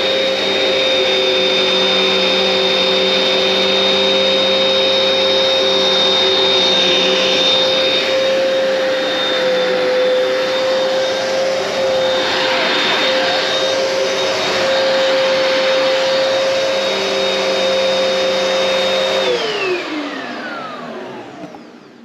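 Hoover Powerdash Pet carpet cleaner running steadily, a high whine over the rush of its suction. Near the end it is switched off, and its motor's pitch falls as it spins down to a stop.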